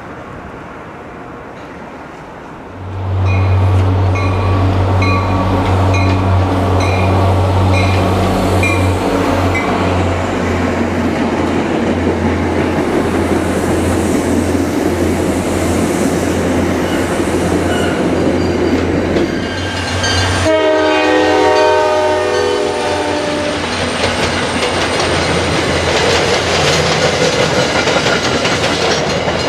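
A diesel commuter train passes close by: a loud, steady low engine drone with rolling wheels. About twenty seconds in, a multi-chime air horn sounds one chord for about three seconds. The rail cars keep rolling past after it.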